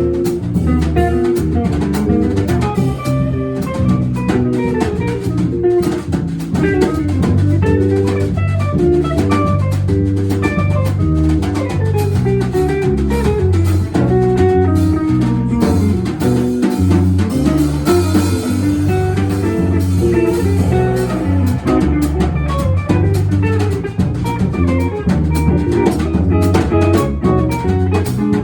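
Jazz quartet playing live: drum kit with busy cymbal strokes under a plucked-string lead and low bass notes that change in steps.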